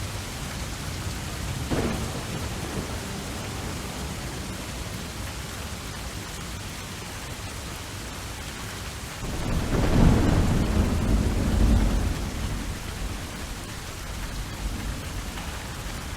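Steady rain of a thunderstorm, with a short clap of thunder about two seconds in and a loud, low rumble of thunder lasting about three seconds past the middle.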